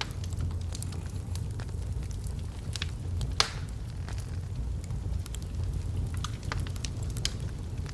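Burning logs crackling in a fireplace: irregular sharp pops and snaps, the loudest about three and a half seconds in, over a steady low rumble.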